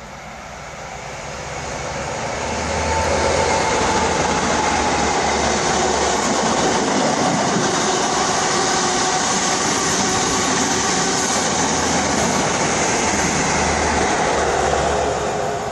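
A train running past: a steady rushing rumble that builds over the first few seconds, holds, and begins to fade near the end.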